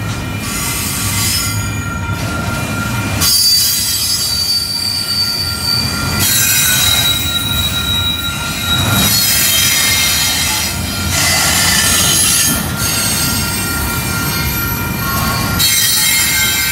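Double-stack intermodal freight cars rolling past at close range: steady wheel-and-rail rumble with high wheel squeal that swells and fades every few seconds as the cars go by.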